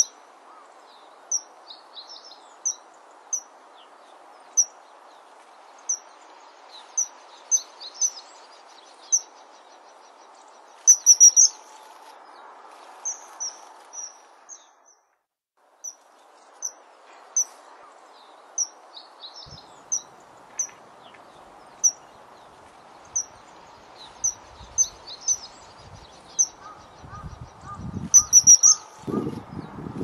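Birds chirping: single short high notes about once a second, with a couple of louder quick runs of notes, over a steady background hiss. The sound cuts out briefly near the middle, and a louder low rumble comes in near the end.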